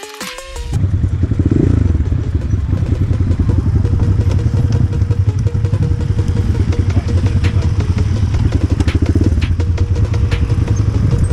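Enduro motorcycle engine running hard as it is ridden off-road, its revs rising briefly about a second and a half in, with scattered clicks and knocks from the bike.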